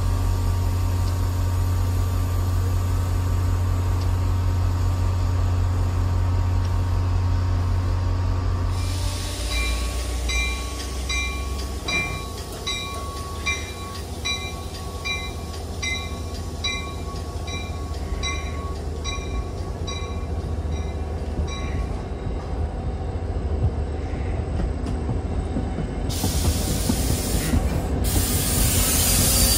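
New Jersey Transit commuter train at a station: first a steady low hum from the train standing at the platform, then a bell dinging about once a second as the train pulls away. Near the end, two loud bursts of wheel squeal from the moving cars.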